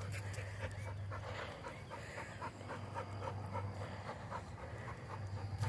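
A dog panting steadily with quick, even breaths, about three a second.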